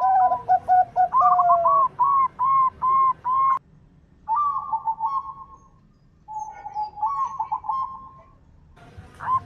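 Zebra dove (perkutut) cooing: runs of short, rapidly repeated coo notes, about three a second, broken by three short pauses.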